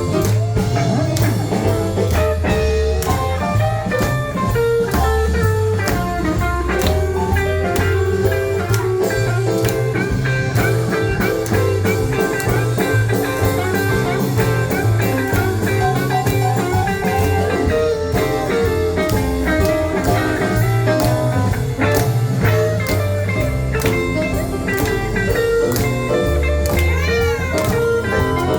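Live blues band playing an instrumental passage: guitar over a bass line and drum kit at a steady beat, with no singing. Near the end the guitar bends a few notes up and down.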